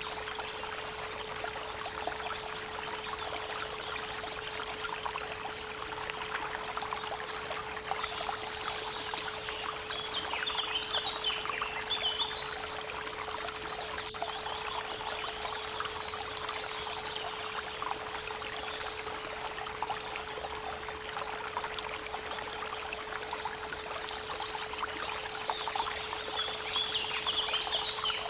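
A steady 432 Hz pure tone hums beneath the constant rush of a creek's running water. Birds sing over it, with runs of chirps about ten to twelve seconds in and again near the end, and a short high trill twice.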